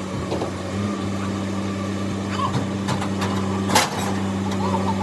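A steady low machine hum, with scattered clicks and one sharp knock about three-quarters of the way through.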